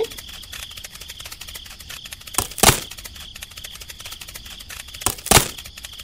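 Sound effects of a pick striking ground and wood, in two double strikes: a hit and then a louder one, about two and a half seconds apart. A steady fast ticking background runs underneath.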